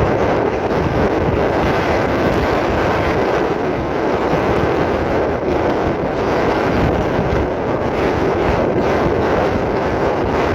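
Strong gusting wind blowing hard across the microphone: a loud, steady rush with a low rumble, without let-up.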